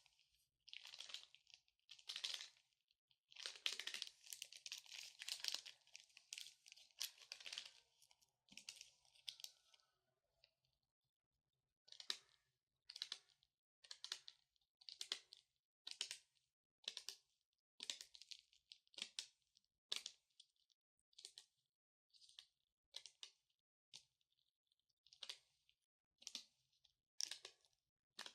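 Long natural fingernails scratching in close-up: a dense run of overlapping scratches for the first several seconds, then, after a short pause, separate short strokes about once a second.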